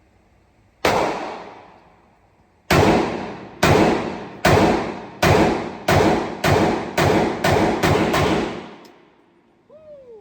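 Micro Draco AK-pattern pistol in 7.62x39 fired semi-automatically, about ten loud shots as a 10-round magazine is emptied. A single shot comes first, then after a pause the rest follow faster and faster. Each shot rings out with a long echoing tail.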